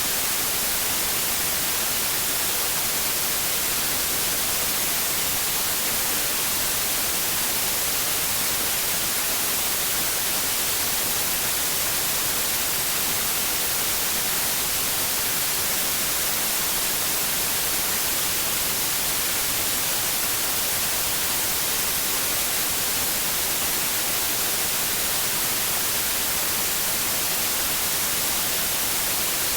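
Steady white noise: an even, unbroken hiss, brightest in the high end, with no tones, rhythm or changes in level.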